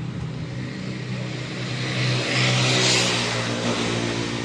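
A motor vehicle's engine droning steadily, swelling louder as it passes about two to three seconds in and then fading.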